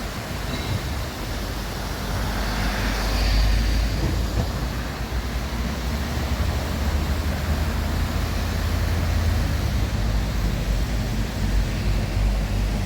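City street ambience: a steady low rumble of road traffic, getting louder about two seconds in and holding.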